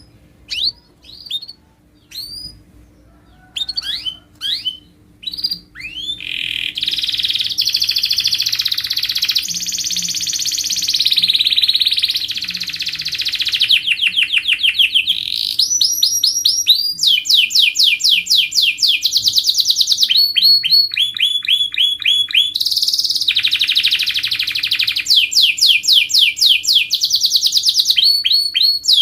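Domestic canary singing. A few separate chirps for the first six seconds or so, then a continuous song of fast rolling trills and rapid repeated sweeping notes, changing phrase every second or two. A faint steady hum runs underneath.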